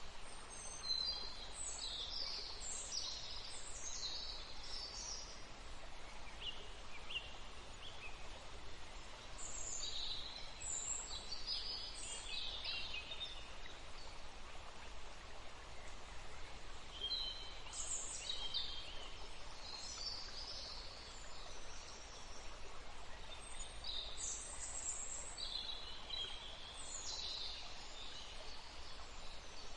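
Steady hiss of flowing water, with birds chirping in four bouts of quick high calls spaced several seconds apart.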